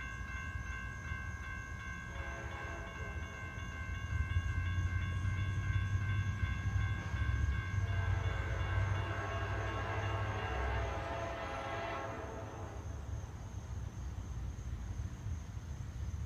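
Diesel freight locomotive's multi-tone air horn sounding one long blast, its chord dropping slightly in pitch as it passes, then cutting off about twelve seconds in. A low rumble of the locomotive and rolling train runs beneath it and is loudest in the middle.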